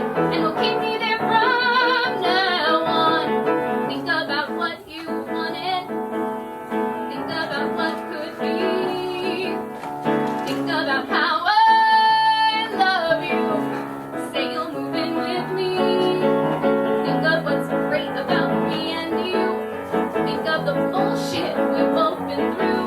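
A woman singing a musical-theatre song with piano accompaniment, her voice sliding up into one long held high note about halfway through.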